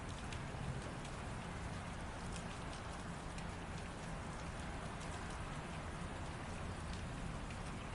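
Light rain falling steadily, with many small drops ticking on a surface.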